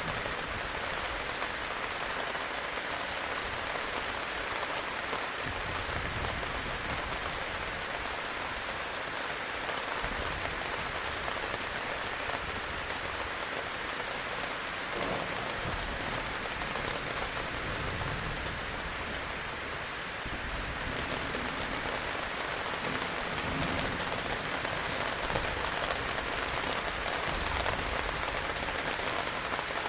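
Steady heavy rain, with a low rumble swelling up now and then.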